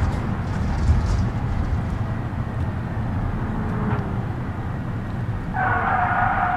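Old minivan running down the road, heard as a steady low engine and road rumble. Near the end a pitched tone sounds for about a second.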